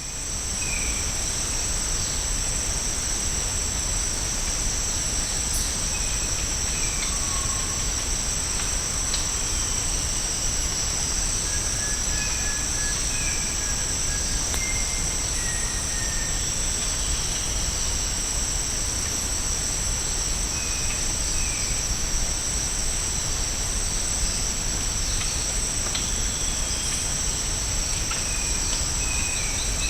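Continuous high-pitched chorus of tropical insects, holding two steady pitches, with short scattered bird calls over it and a steady low rumble underneath.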